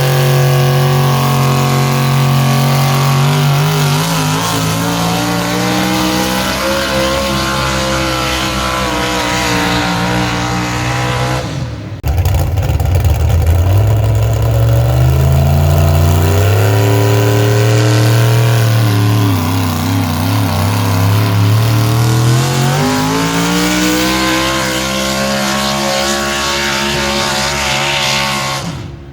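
Engine of a pulling vehicle running hard under load, its pitch sagging and climbing again. About twelve seconds in it cuts abruptly to another engine that winds up, dips for a few seconds and climbs back up.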